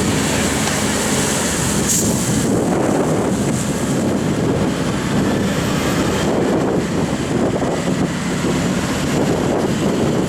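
Hydrema 912 water truck's diesel engine running steadily and loudly, with a high hiss that eases off about two and a half seconds in.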